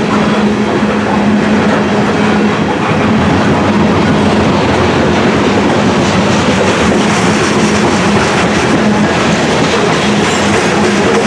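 Freight cars of a grain train rolling past close by: a loud, steady rumble of steel wheels on rail with a constant hum and the clack of wheels over rail joints.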